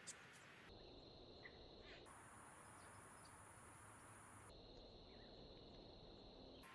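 Faint outdoor ambience with a steady high-pitched insect drone, such as crickets. It changes pitch abruptly twice, cutting in and out between spliced segments.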